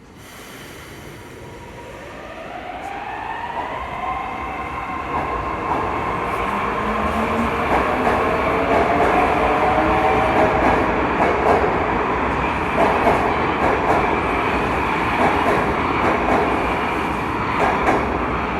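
St Petersburg metro train of the 81-722.1 series accelerating: the traction drive's whine climbs in pitch for the first few seconds as it picks up speed. The running noise builds to a loud, steady rumble of wheels on rail.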